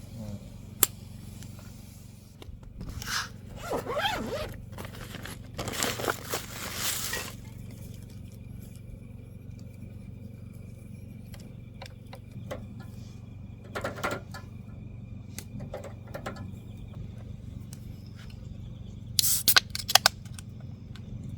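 Intermittent scraping and rustling with sharp clicks, from things being handled, over a steady low hum; a quick run of loud clicks comes near the end.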